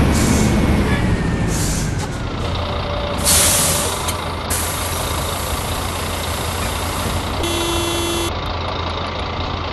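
Scania city bus's diesel engine running steadily, easing off in the first two seconds. A loud air hiss from the pneumatics comes about three seconds in, and a short electronic beep sounds near the end.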